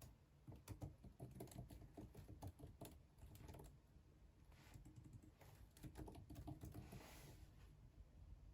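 Faint typing on a computer keyboard: irregular key clicks in quick runs, with a brief soft hiss near the end.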